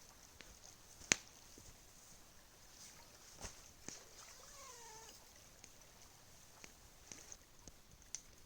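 Campfire crackling with scattered sharp pops over a steady high hiss, the loudest pop about a second in. Near the middle an animal gives one short cry that falls in pitch.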